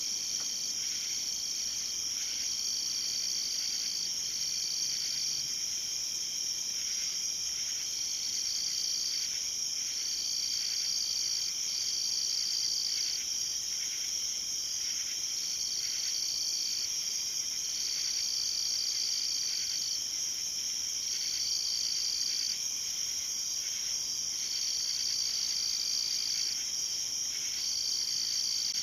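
Night insect chorus, mostly crickets, trilling steadily at a high pitch, with one lower call stopping and starting again every one to two seconds.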